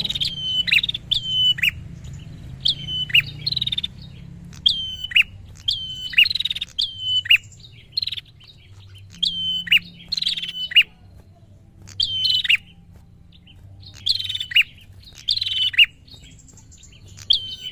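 A prinia (prenjak) calling in quick, repeated sharp phrases, each a few clicky notes ending in a steeply falling note, about one a second with short pauses in between. This is the excited territorial calling used to rile up rival prinias.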